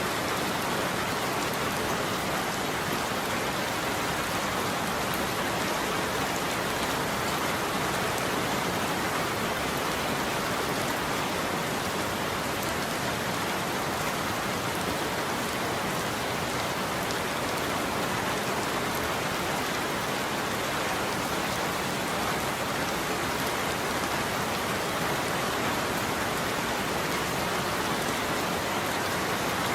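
Steady heavy rain falling on a surface, an even hiss of many drops with no thunder.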